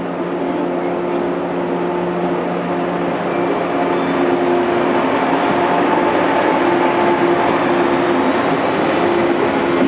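Electric multiple-unit train, Okayama depot set B19, pulling into the platform: steady running noise with a low motor hum, growing louder about halfway through as the train draws alongside.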